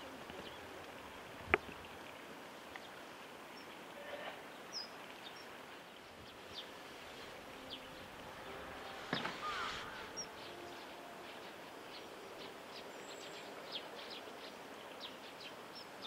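Riverside outdoor ambience with short, high bird chirps scattered throughout. A single sharp click about a second and a half in, and a brief louder burst of noise and calls about nine seconds in.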